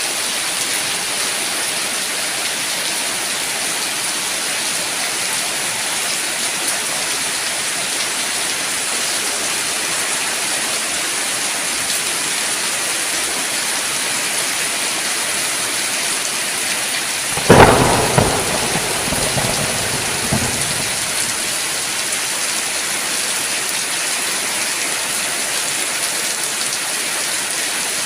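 Steady rain falling, with a sudden thunderclap about two-thirds of the way through: a sharp crack that rumbles away over about three seconds.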